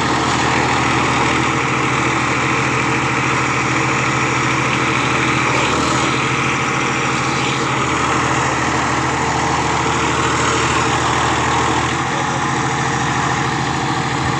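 Massey Ferguson 241 tractor's three-cylinder diesel engine running steadily at low speed, a little quieter near the end.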